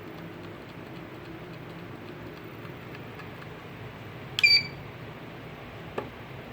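A steady low hum, with one short electronic beep about four and a half seconds in and a single sharp click near the end.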